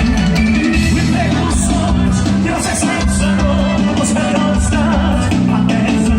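Live band playing an upbeat song with drums, bass and voices singing.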